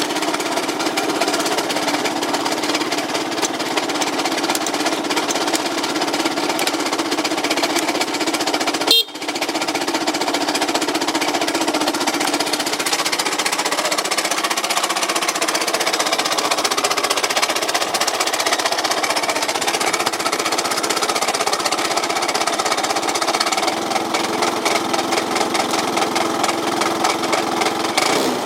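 Yamaha Cygnus 125X single-cylinder scooter engine running with a loud, fast, steady rattling knock: an abnormal engine noise on a scooter whose drive no longer reaches the rear wheel, which the owner suspects is a broken drive belt. The sound briefly drops out about nine seconds in.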